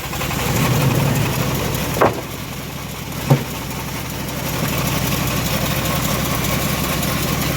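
Engine of a home-built bandsaw sawmill running steadily, briefly louder about a second in, with two sharp knocks about a second apart.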